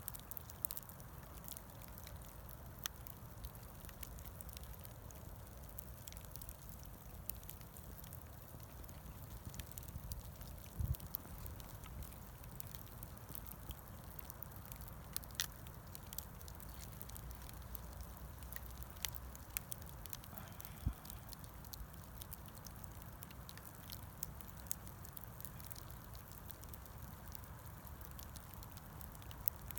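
Bonfire of scrap wood crackling faintly, with scattered sharp pops over a low steady rumble.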